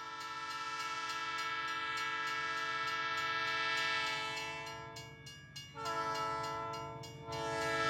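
Train horn sounding a long blast that fades out about five seconds in, followed by two more blasts close together.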